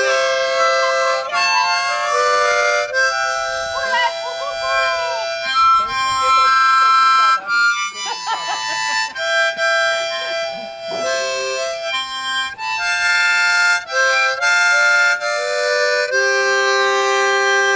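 Harmonica playing a tune in held chords, each note sustained about half a second to two seconds before moving to the next.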